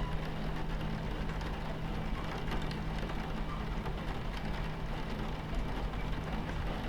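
Rain on a train window over the steady low rumble and hum of a train in motion, heard from inside the cabin, with faint scattered drop ticks.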